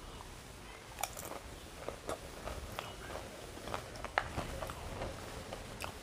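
Close-up chewing of a mouthful of doi fuchka, yogurt-filled puri, with irregular wet bites and small crunches several times a second, the loudest about four seconds in.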